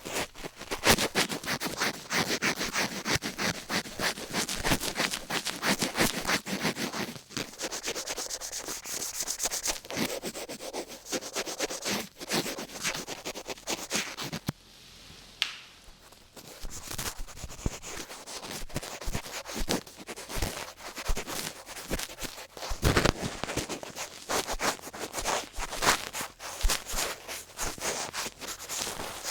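Close-up ASMR rubbing and scratching against the microphone: quick, continuous strokes with a brief quieter lull about halfway through.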